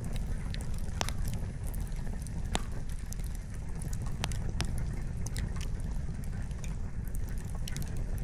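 Wood fire crackling: sharp, irregular pops and snaps from the burning firewood, one or two a second, over a steady low rumble.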